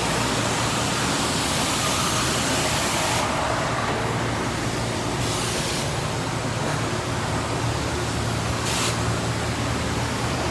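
High-pressure spray wand at a car wash hissing. It mostly stops about three seconds in, with two short bursts later, over a steady low hum.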